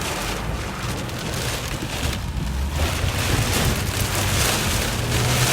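Heavy rain and wind on a car with its engine running low underneath, the whole getting louder in the second half.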